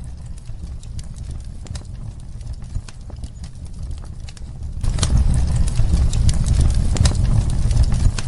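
Wood fire crackling in a fireplace: a steady low rumble with irregular sharp pops and snaps, getting louder about five seconds in.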